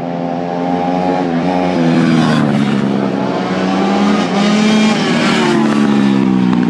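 Small dirt bike and pit bike engines revving as they ride, several engine notes overlapping and rising and dropping in pitch. They grow louder about two seconds in.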